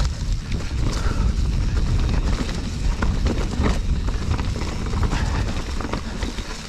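Full-suspension mountain bike riding over rough trail: a steady low rumble with scattered clicks and knocks from the tyres, chain and frame rattling over rocks.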